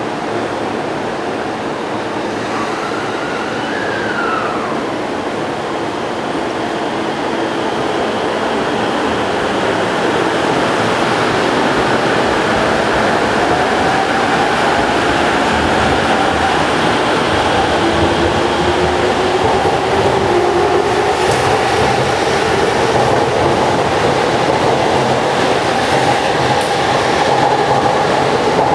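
Electric commuter train running on the track, its noise building steadily as it gathers speed, with the motor whine rising in pitch in the second half.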